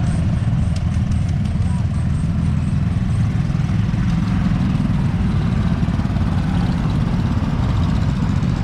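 The four-cylinder 1.8-litre diesel engine of a 1965 Massey Ferguson 130 tractor runs steadily at a low, even speed.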